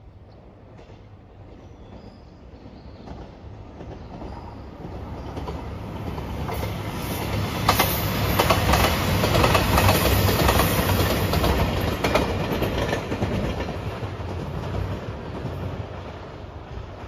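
JR Shikoku 2700 series diesel limited express train approaching and passing, its engines rumbling under the rapid clack of wheels over rail joints. It grows louder, is loudest about eight to twelve seconds in, then fades as it moves away.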